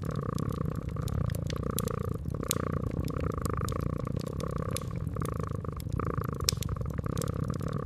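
Domestic cat purring steadily, with a wood fire crackling: sharp pops scattered throughout.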